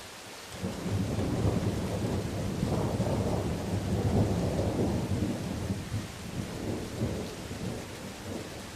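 A long rumble of thunder, rising suddenly about half a second in and slowly dying away near the end, over a steady hiss of rain.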